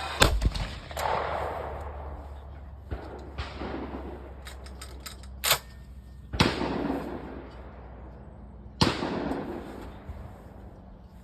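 Gunshots fired singly a few seconds apart, each with a long echoing tail. The loudest come right at the start, again a little past halfway and once more near the end, with a couple of weaker cracks between.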